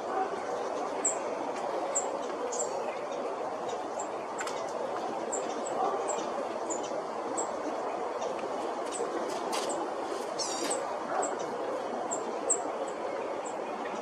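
Small birds giving short, high, thin chip notes, about one or two a second, with a longer wavering call about two thirds of the way through, over a steady background hiss.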